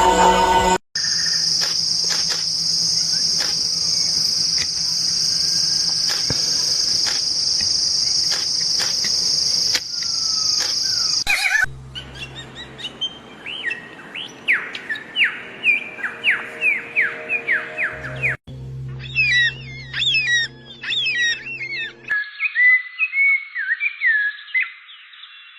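Several different birds heard one after another in cut-together recordings. First comes a steady high-pitched buzz with a few clicks for about ten seconds. Then a bird repeats quick falling whistles, then fast chirping, and near the end a different bird gives short rising-and-falling notes.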